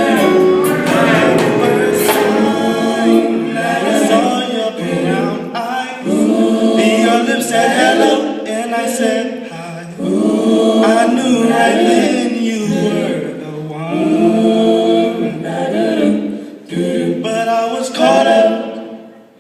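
Small a cappella vocal group singing in close harmony, several voices at once without instruments, phrase after phrase, fading briefly near the end.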